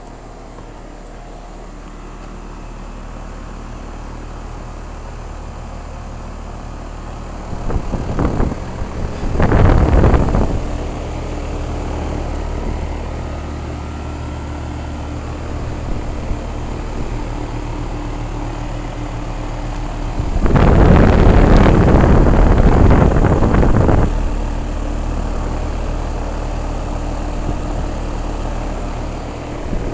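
Carrier central air-conditioning equipment running: a steady hum with a fan's rush, slowly growing louder. Loud bursts of rushing noise break in about eight seconds in and again for about three seconds around twenty-one seconds in.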